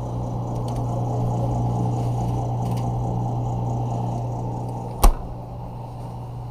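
A steady low machine hum, with one sharp click about five seconds in.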